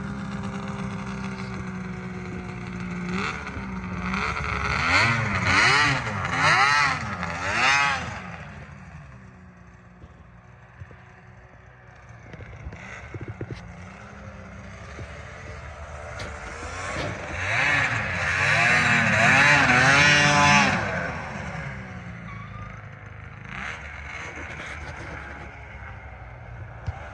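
Arctic Cat Thundercat 900 big-bore snowmobile's three-cylinder two-stroke engine idling, then blipped up and down four or five times in quick succession. About halfway through it climbs to a longer high-rev run of a few seconds, then falls back to a lower, steady running sound.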